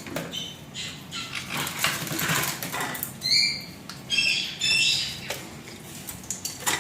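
Baby white-bellied caique parrots bathing, wings flapping and splashing in water in quick irregular strokes. A few short, high squawks come about three seconds in and again around four to five seconds.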